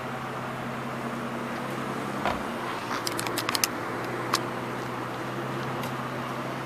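Aston Martin sports car's engine idling steadily while parked, with a dull thump about two seconds in and a quick run of light clicks a second later.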